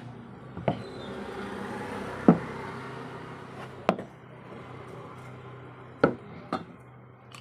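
Five sharp knocks or clicks, spaced a second or two apart and the loudest about two seconds in, over a low steady hum.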